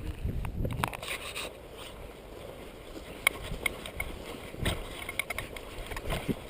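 Footsteps of someone walking outdoors: irregular crunches and sharp clicks, over a low rumble of wind on the microphone.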